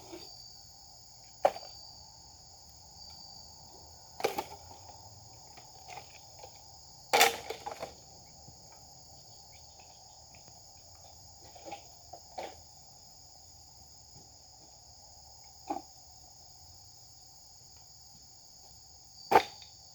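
Insects trilling steadily and high-pitched, with seven short sharp sounds scattered through it, the longest and loudest about a third of the way in.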